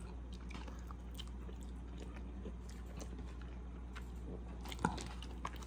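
A person chewing a mouthful of taco with the mouth closed: faint, soft mouth and chewing noises with a few sharper clicks near the end, over a steady low hum.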